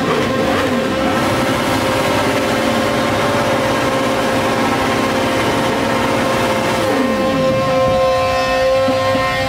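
Sport motorcycle engine held at high, steady revs during a burnout, its rear tyre spinning and smoking. About seven seconds in, a second engine's revs fall away underneath it.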